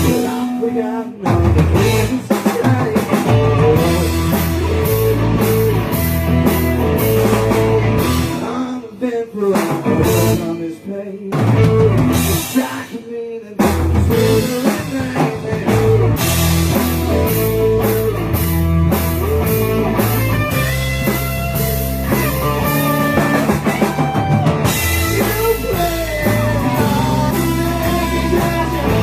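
Rock band playing a song on drum kit, guitars and bass, with a few short breaks where the band drops out for a moment.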